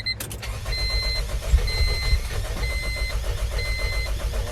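1997 Honda CR-V's four-cylinder engine being cranked by the starter, turning over rapidly and evenly without catching, while a dashboard warning chime beeps about once a second. The no-start follows water from pressure washing getting onto the spark plugs, coils and distributor and shorting out the ignition.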